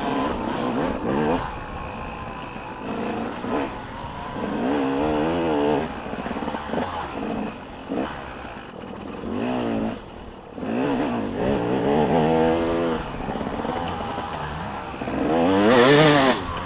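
Motocross bikes revving up and down as they ride the track, several passes with engine pitch rising and falling; the loudest one goes by close near the end.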